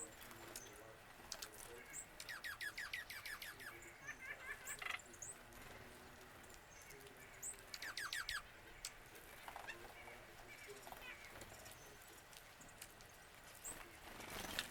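Wild songbirds singing and calling: a quick run of short down-slurred notes about two seconds in and again around eight seconds, among scattered high chirps. A brief noise near the end.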